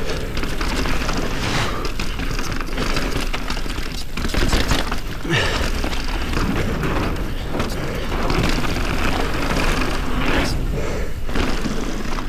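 Polygon Colossus N7 enduro mountain bike riding fast down a rough downhill trail: a steady rumble of tyres rolling over dirt and rocks, with frequent knocks and clatter as the bike hits bumps.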